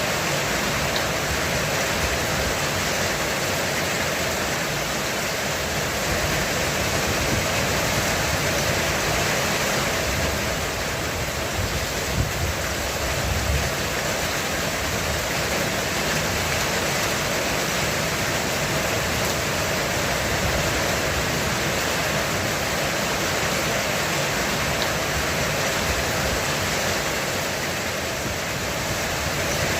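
Heavy rain falling steadily on a roof, a dense even hiss, with a brief low rumble about halfway through.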